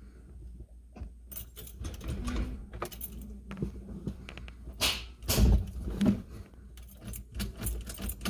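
Keys jangling, with irregular clicks and rattles of handling over a low steady rumble; the rattling is loudest about five to six seconds in.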